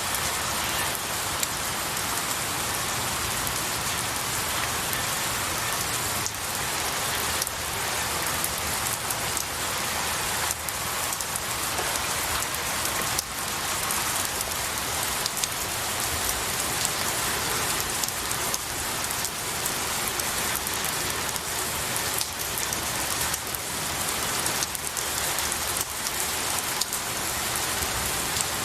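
Steady rain falling on pine needles and a tree, a continuous patter of many drops with scattered sharper drips.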